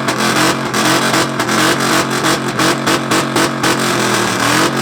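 A car engine revved hard and held at high rpm through a loud performance exhaust, with rapid, irregular sharp pops crackling through it.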